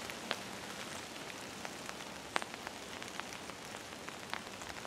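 Steady light rain hissing, with scattered single drops ticking sharply and irregularly close by.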